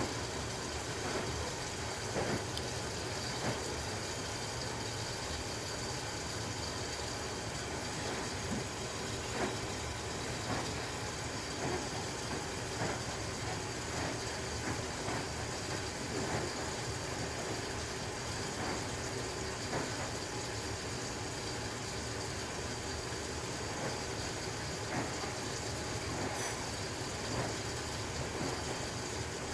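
Maytag washing machine running: a steady motor hum with scattered light clicks and knocks at irregular moments.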